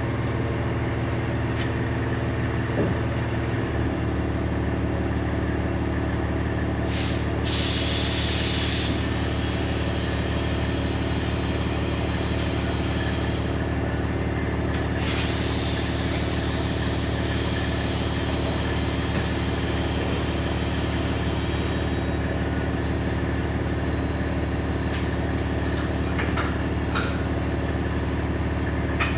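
Semi truck's diesel engine idling steadily, its note shifting about four seconds in. Compressed air hisses twice, briefly and then for several seconds, as the truck's air lines or brakes are worked, with a few clicks near the end.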